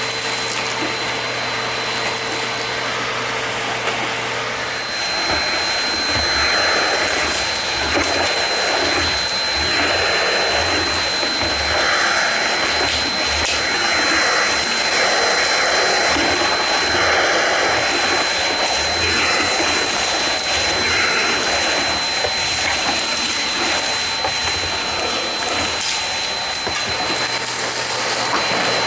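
Nilfisk GM80 canister vacuum cleaner running with a steady high whine. From about five seconds in, its sound swells and dips every second or two.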